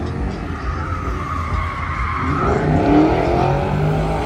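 Car tires squealing as a car does a burnout, its engine revving underneath. The squeal is strongest for about the first two seconds.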